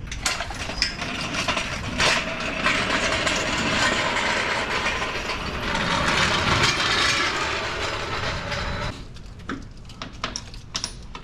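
Steady mechanical noise of a shop tool working, with a knock about two seconds in; it runs for about nine seconds and then stops.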